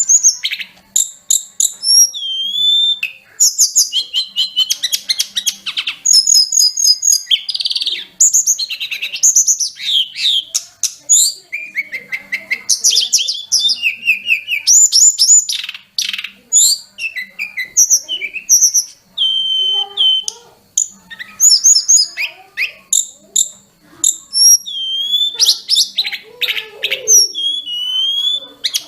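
A sulingan gunung (tledekan gunung) singing a long, varied song with no pauses: clear flute-like whistles, sliding notes and fast trills in quick succession.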